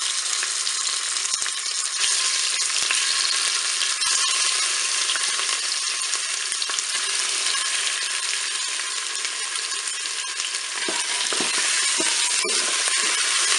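Raw chicken strips sizzling in hot olive oil in the bowl of a Cookeo multicooker set to browning: a steady, even frying hiss. A few soft knocks of a wooden spatula stirring the pieces come near the end.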